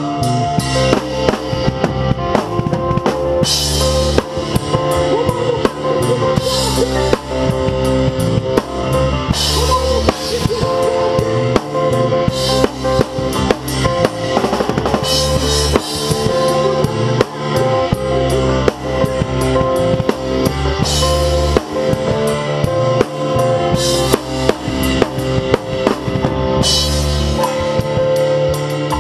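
Rock band playing, heard from the drum kit: bass drum and snare drive a steady beat, with Zildjian cymbal crashes every few seconds, over guitar and bass.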